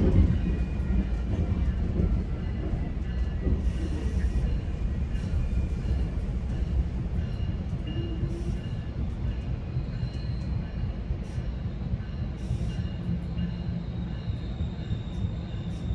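Commuter train running along the track, heard from inside a passenger coach: a steady low rumble of wheels on rails, with faint thin high-pitched squeals and a few light clicks.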